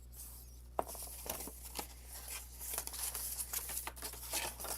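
Cardstock being handled and scored with a scoring tool: irregular rustling and scraping strokes with small ticks, one sharp tick about a second in, over a steady low hum.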